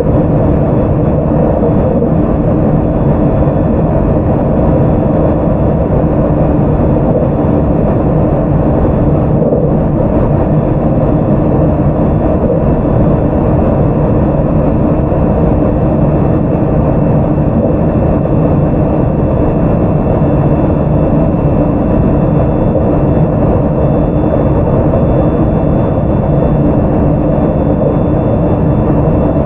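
Running sound aboard the JR 681 series EMU car KuMoHa 681-507 under way: a steady, continuous rumble of the wheels on the rails, with thin steady whining tones over it.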